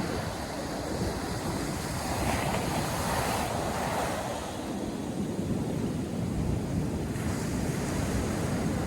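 North Sea surf breaking and washing up the beach, with a wave's hiss swelling and fading about two to four seconds in. Wind buffets the microphone with an uneven low rumble.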